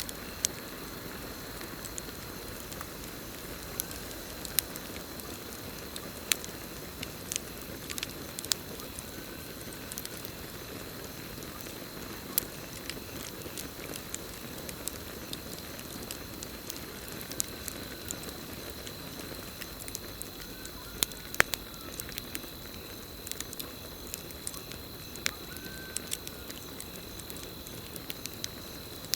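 Campfire burning, with irregular sharp crackles and pops over a steady low rush of flame, and a steady high trill of crickets behind it.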